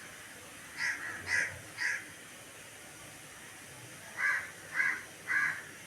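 A bird calling: three short calls about a second in, then three more near the end, each about half a second apart.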